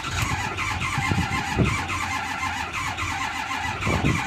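Ford 6.4 Power Stroke V8 diesel being cranked over by its starter in extreme cold, a steady rhythmic cranking that does not catch: the engine fails to fire.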